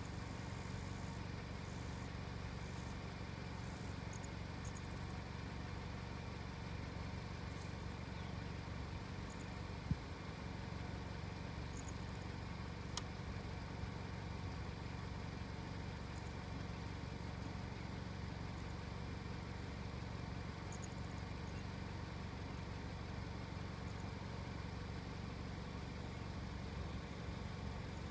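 Car engine idling steadily, a low even hum, with a single sharp click about ten seconds in.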